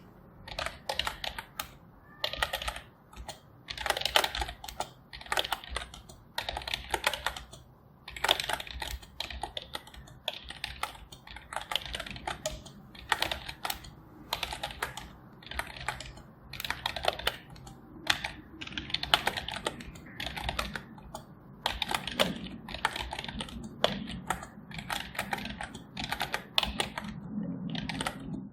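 Typing on a computer keyboard: quick runs of key clicks in bursts of a second or so, broken by short pauses.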